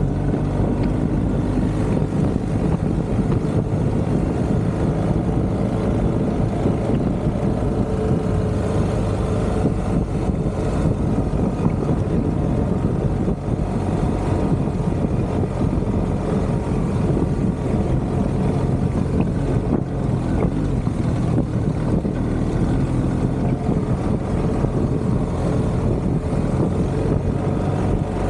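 BMW R1250GS Adventure's boxer-twin engine running at a steady cruise on a dirt track, heard from the bike itself, mixed with a steady rush of wind and tyre noise.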